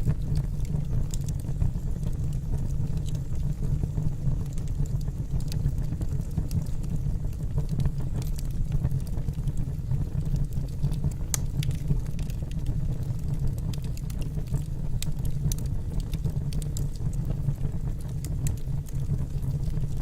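Logs burning in a fireplace: a steady low rumble of the fire with scattered sharp crackles and pops from the wood.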